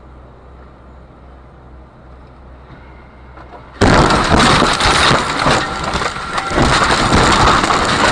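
A car's low, steady in-cabin drone, then about four seconds in a sudden, very loud crash: dense crunching, cracking and breaking, with the sound of glass, running on without a break.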